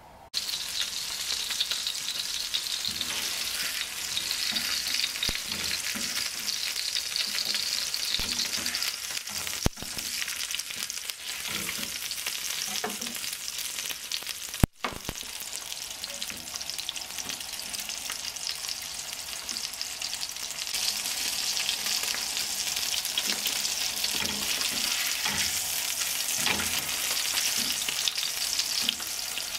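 A block of halloumi frying in hot oil in a nonstick pan, a dense steady sizzle that starts suddenly just after the start. There is a sharp click and a brief break about halfway through.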